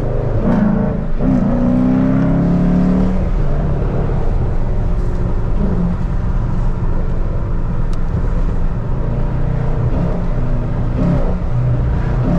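Dodge Charger R/T's 5.7-litre Hemi V8 exhaust, fitted with glass pack mufflers, pulling up in pitch over the first few seconds as the car accelerates, then settling into a steady low drone while cruising.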